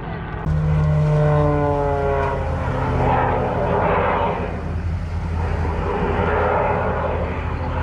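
Propeller-driven aircraft flying past, its engine note falling in pitch as it goes by, followed by swelling rushing noise, over a steady low engine hum.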